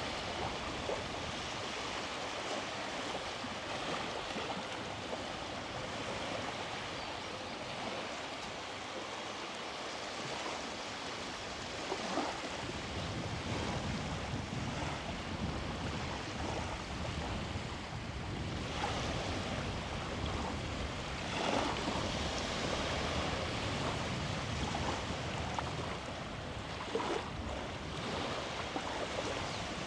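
Small sea waves breaking and washing up a beach: a steady rush of surf that deepens about twelve seconds in, with a few brief splashes.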